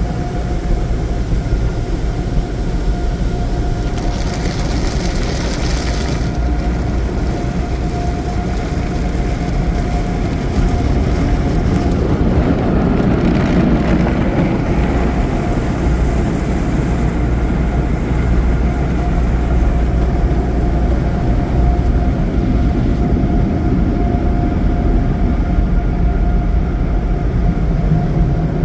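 Peco car wash tunnel equipment heard from inside the car: a loud, steady rumble and rush of the wash machinery with a steady hum. A brief hissing spray comes about four seconds in, and the noise grows louder about ten seconds in.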